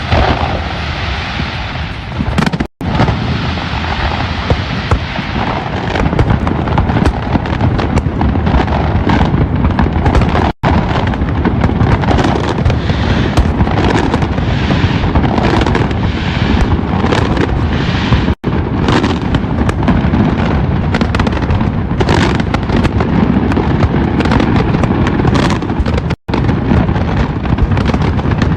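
Fireworks display: a dense, continuous barrage of bursts, bangs and crackles. The sound cuts out completely for a moment four times, about every eight seconds.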